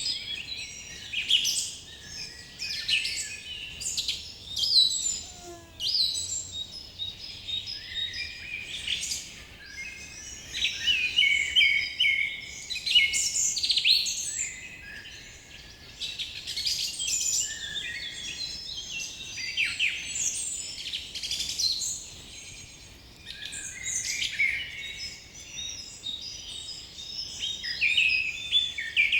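A dense chorus of many songbirds chirping and singing at once, with quick, overlapping high calls and trills that never let up.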